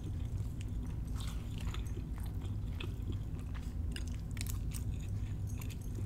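Close-miked chewing of jumbo lump crab cake, with scattered short mouth clicks and smacks over a low steady hum.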